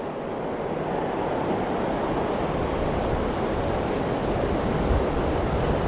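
Steady rush of surf breaking on the shore, mixed with wind blowing across the microphone.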